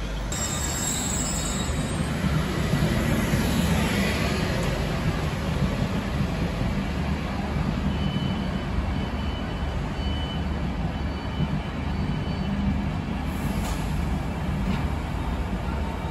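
Transport for Wales passenger coaches running past close alongside the platform: a steady rumble of wheels on rail, with faint high wheel or brake squeals from about halfway through.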